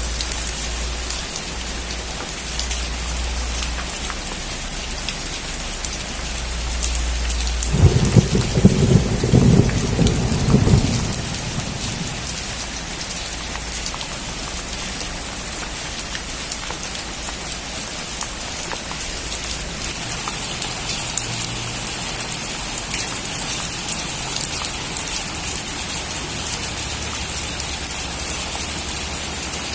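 Heavy rain drumming on a metal roof, with a clap of thunder about eight seconds in that rumbles for around three seconds. The rain grows denser and hissier about two-thirds of the way through.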